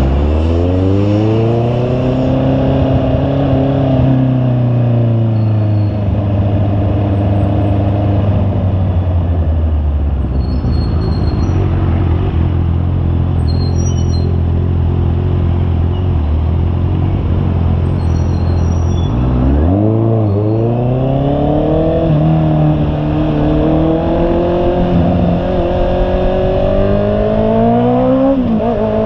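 Honda CB650R's inline-four engine under way: the revs climb at the start, then hold fairly steady while cruising, drop and pull back up about two-thirds of the way through, and swing again near the end, with a steady rush of riding noise underneath.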